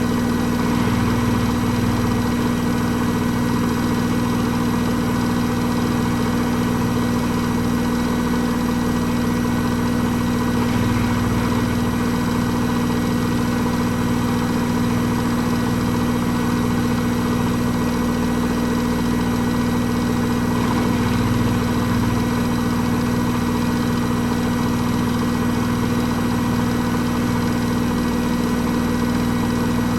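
Hoover H-Wash 300 Plus washing machine spinning at a constant speed: a steady motor hum with an unchanging whine that holds throughout.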